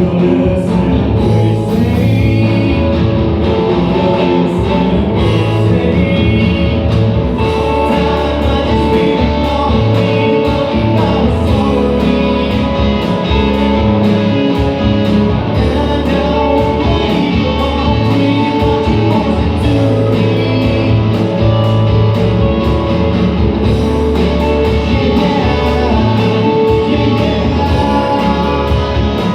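A rock band playing live: guitars over bass and drums, with a voice singing, loud and unbroken.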